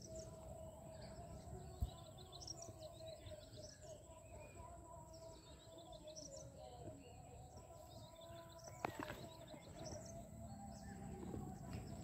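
Faint high bird chirps in short clusters, repeated every second or two, over a steady outdoor hum, with a sharp click about two seconds in and another near nine seconds.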